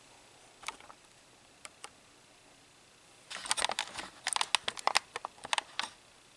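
Small metal clicks and scrapes of tweezers and new breaker-point parts being worked into place in a Tecumseh H60 engine's ignition: a few scattered clicks, then a quick run of rattling clicks for about two and a half seconds past the middle.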